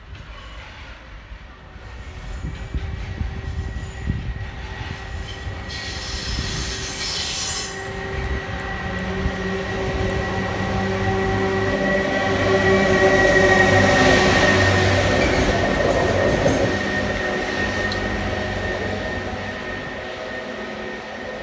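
Yellow railway engineering vehicle approaching and passing: its engine and rail noise build up, are loudest about two-thirds through, then fade as it moves away. A steady high whine runs under it, with a short burst of hiss about a quarter in.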